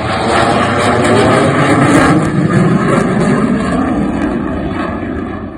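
F-22 Raptor's twin Pratt & Whitney F119 turbofan engines in slow flight: a loud jet roar that begins to fade near the end.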